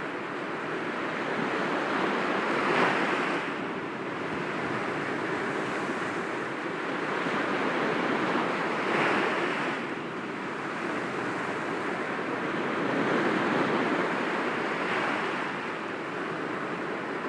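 Sea waves breaking gently against rocks: a steady rush of surf that swells and breaks every few seconds, loudest about three and nine seconds in.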